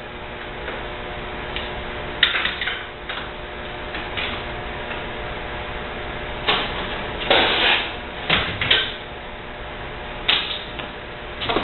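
Dishwasher parts and tools knocking and clattering as the machine is taken apart: several separate knocks over a steady hum.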